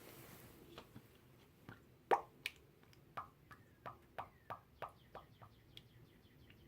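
Motor oil glugging out of a plastic bottle as it is poured into an engine's oil filler: a string of plops, about three a second in the middle, getting quicker and fainter near the end.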